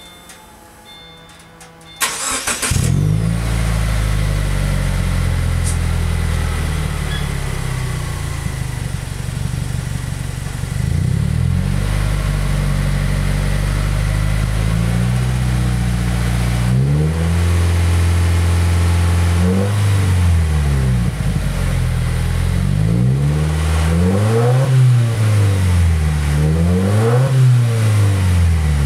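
2014 Subaru Forester XT's turbocharged flat-four, breathing through an Invidia Q300 cat-back exhaust, starting warm about two seconds in and settling to idle. It then revs several times, rising and falling, with one longer held rev and quick blips up to about 4,000 rpm.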